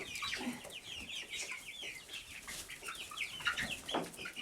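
A flock of young chickens giving many quick, high peeping calls and clucks, overlapping several a second, as they feed.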